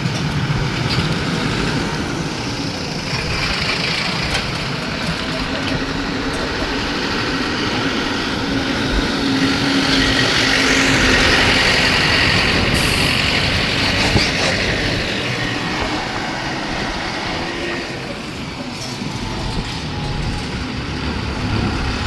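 Road traffic in slow or jammed flow: vehicle engines, trucks among them, with the general noise swelling for a few seconds around the middle.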